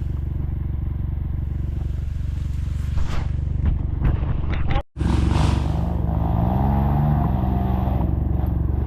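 Trail motorcycle engine running steadily, with a few knocks a few seconds in. After a brief dropout in the sound about five seconds in, the engine note rises and falls as it is revved.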